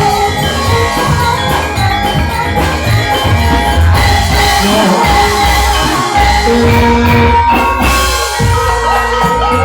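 Live gamelan ensemble playing an instrumental passage of a campursari song: metallophone notes ringing over a steady drum beat.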